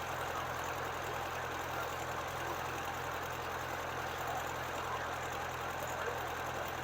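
Well-drilling rig's engine running steadily, with an even rushing hiss over it from the water the rig is bringing up and out of the discharge pipe.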